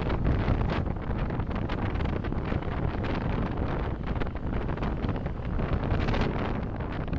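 Steady road noise of a car driving, with wind rumbling on the dashcam's microphone.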